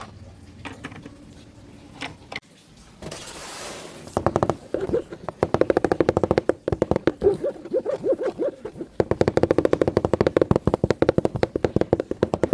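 A battery-powered toy's motor and plastic gears clattering in a fast, even run of clicks, starting about four seconds in, breaking off briefly and starting again.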